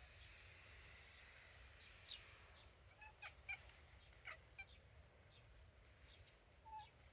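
Faint short bird calls and chirps, scattered irregularly, some sliding down in pitch, over a quiet outdoor background.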